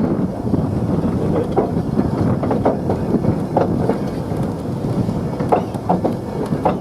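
Train running on rails: a steady low rumble with scattered clicks and knocks from the wheels and track.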